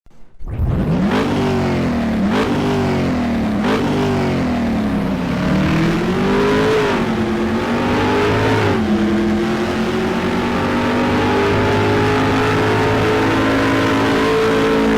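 A vehicle engine revving: its pitch climbs and falls back several times, then holds a steady note from about nine seconds in.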